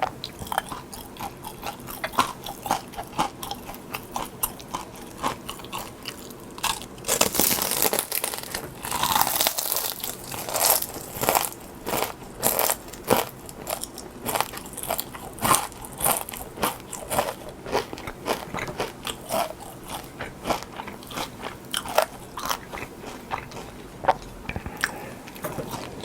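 A person biting and chewing crunchy food, with sharp crunches coming about once or twice a second and a denser run of crunching about seven seconds in.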